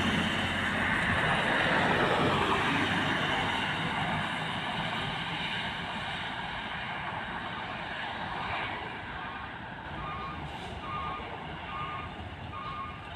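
Heavy truck engine running with loud road noise that slowly dies down. From about nine seconds in, a truck's reversing alarm beeps steadily, about one beep a second.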